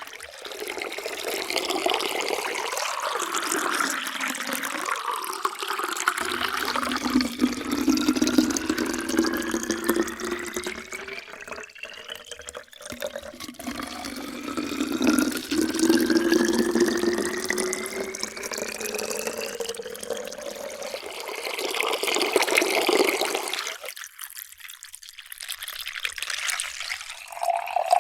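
Water pouring into a container, its pitch rising steadily as the container fills. This happens twice in a row, then there is a short lull about three-quarters of the way through before another pour starts near the end.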